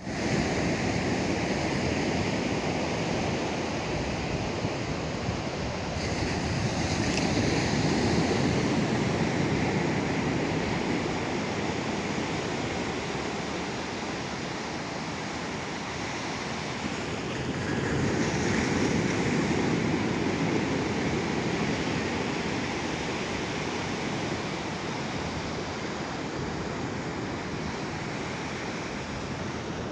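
Atlantic surf washing onto the beach: a continuous rush of breaking waves that swells louder twice, about eight and nineteen seconds in.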